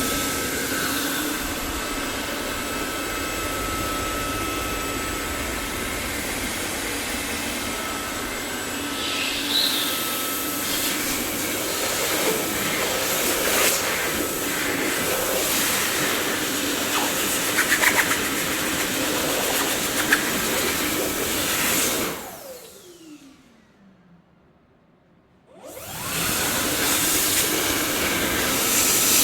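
Dyson vacuum cleaner running with a steady whooshing hum. About three quarters of the way through its motor is switched off and winds down with a falling whine to near silence, then it starts up again a few seconds later.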